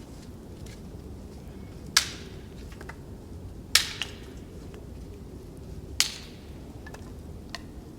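Sharp knocking strikes: three loud blows about two seconds apart, each with a short ring-out, and a few lighter knocks between them, over a steady low background noise.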